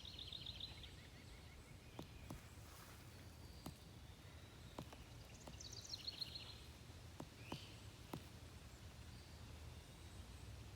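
Pileated woodpecker striking wood with faint, irregularly spaced single knocks, about eight over several seconds. Short high trills from small songbirds come near the start and in the middle, over a low steady rumble.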